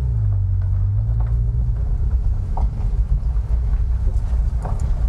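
Car engine running at low speed as the car is driven, a steady low rumble with a few faint knocks.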